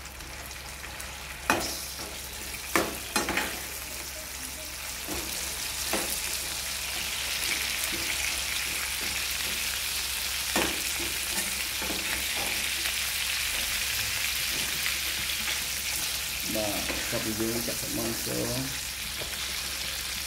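Chicken pieces sizzling as they fry in a non-stick wok, the sizzle swelling a few seconds in and then holding steady. A steel spatula stirs them, knocking sharply against the pan several times.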